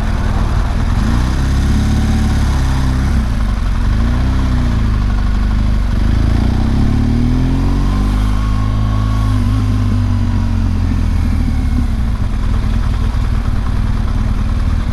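BMW R1200GS Adventure's boxer-twin engine running while riding, its pitch rising and falling several times as the throttle is opened and closed, over steady road and wind noise.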